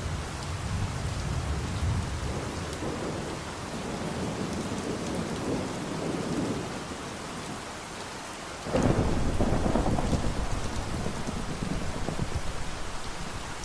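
Steady rain with rolling thunder. A louder thunderclap breaks suddenly about two-thirds of the way through and rumbles away over the next few seconds.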